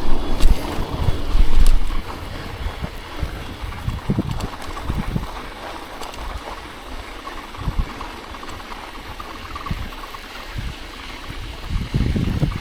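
Wind buffeting a chest-mounted action camera's microphone and bicycle tyres rolling through snow, with heavy low thumps in the first two seconds, then a quieter steady hiss with scattered knocks.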